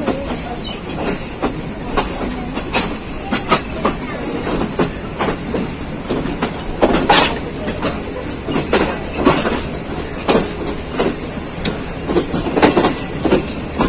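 Passenger train coaches running on the track: a steady rumble with the wheels knocking irregularly over rail joints, about one or two sharp knocks a second, and a rattling clatter.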